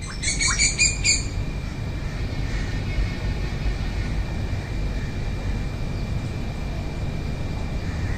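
A bird gives a quick run of short, ringing notes in the first second, then falls silent. A steady low rumble runs underneath.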